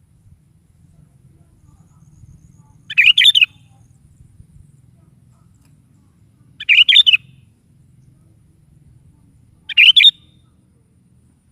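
Sooty-headed bulbul (kutilang) singing three short, loud, warbling phrases a few seconds apart, each about half a second long.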